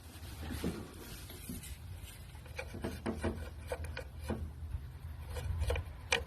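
A scattered run of light, sharp clicks and knocks, more frequent in the second half, over a low steady hum.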